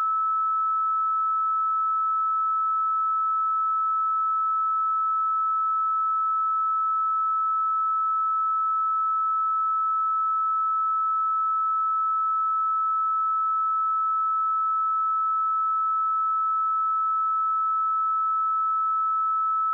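A steady 1305 Hz sine-wave test tone, one pure pitch held at an even level.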